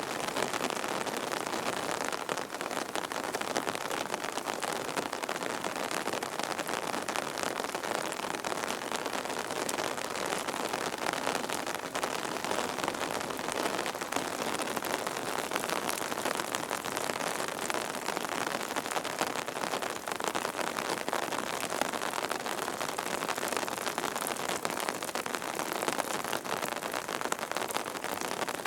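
Steady rain falling, a dense even patter of drops that neither builds nor lets up.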